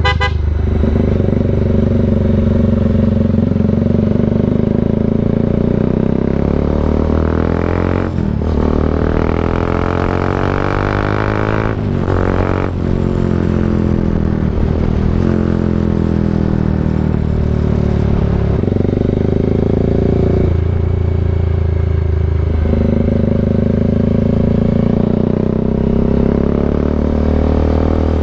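Bajaj Dominar 400's single-cylinder engine through an SC Project aftermarket exhaust, under way on the road: its pitch rises and falls with the throttle, with brief breaks for gear changes about eight and twelve seconds in, then it cruises with smaller changes in pitch.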